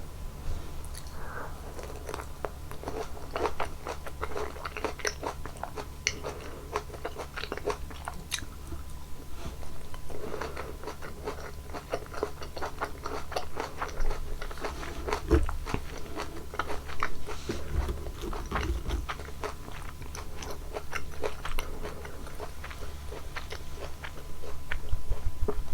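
Close-miked biting and chewing of juicy fresh fruit: many small crisp crunches and wet squelches in quick, uneven succession.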